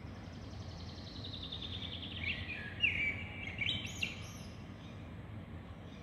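A songbird singing one phrase: a fast run of high repeated notes slipping gradually lower, then louder held notes and quick upward sweeps that end it about four seconds in. A steady low rumble of city background noise runs underneath.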